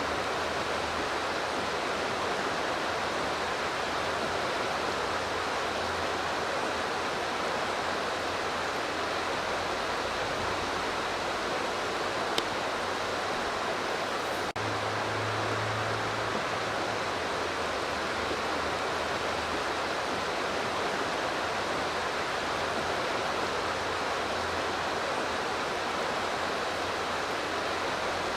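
Steady rushing of river water, an even hiss with no pauses, broken once by a sudden cut about halfway through.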